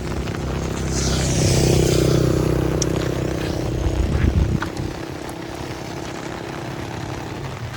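A motorcycle engine running, growing louder over the first two seconds and then fading about five seconds in.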